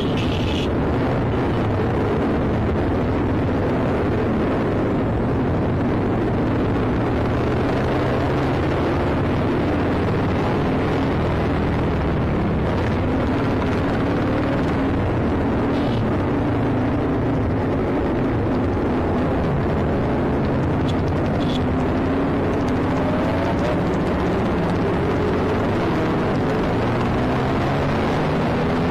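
A Yamaha RX100's two-stroke single-cylinder engine running under way, its pitch rising and falling as the throttle is worked. Other motorcycles' engines run close around it.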